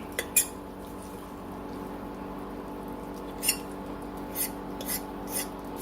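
Two forks shredding cooked chicken breasts in a slow cooker's crock, with a handful of light clicks as the forks touch the pot.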